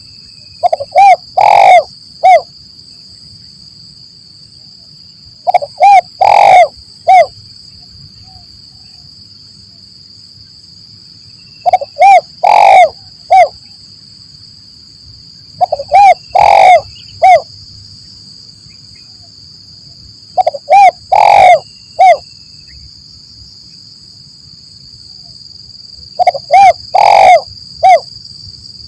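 Spotted dove (tekukur) cooing: six short phrases of several notes each, repeated every four to six seconds, over a steady high-pitched hum.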